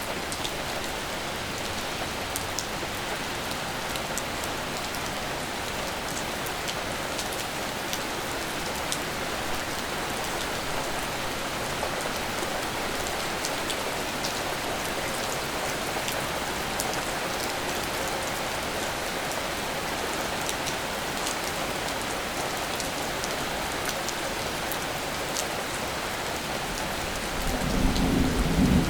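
Steady rain falling on surfaces, with scattered sharp ticks of individual drops. Near the end a low rumble of thunder begins to build.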